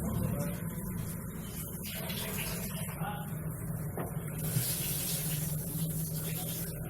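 Refrigerator compressor running with a steady low hum, in a Whirlpool fridge that has stopped cooling. A hissing noise comes in after about four seconds.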